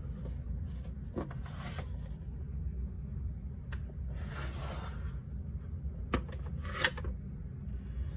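Handling noise: a handful of sharp clicks and knocks and a stretch of rubbing, over a steady low rumble.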